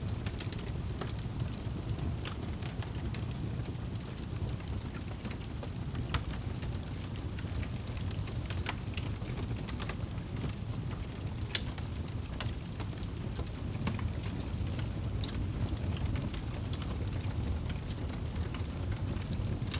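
Crackling fire and steady rain: an even low rumble and rain hiss, with many scattered sharp pops and crackles from the fire.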